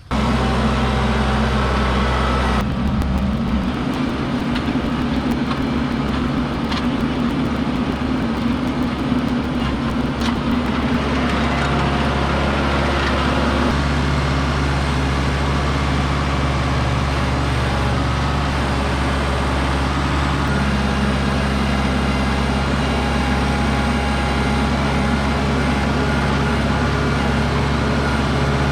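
An engine running steadily, a constant low hum under a rushing noise, starting abruptly and holding without a break.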